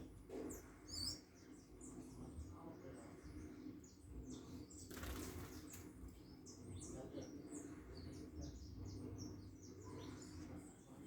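Small birds chirping, with many short, high calls throughout. About five seconds in there is a brief rush of wingbeats as a bird flies.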